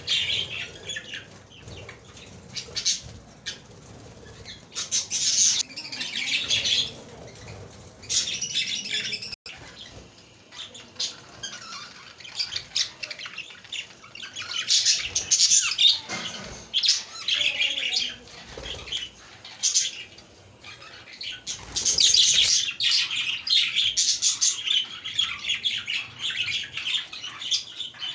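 A flock of budgerigars (parakeets) chattering, chirping and squawking together. The calls come in busy bouts every few seconds, with quieter spells between.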